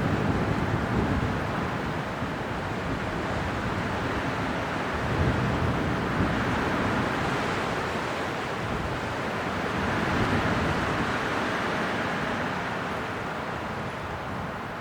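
Winter wind blowing steadily in gusts, swelling about five and ten seconds in and easing off toward the end.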